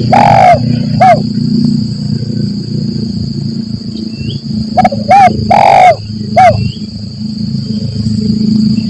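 Spotted dove cooing in phrases of short coos around one longer, drawn coo. A phrase ends about a second in, and a full phrase comes about five seconds in. A steady high whine and a low rumble run underneath.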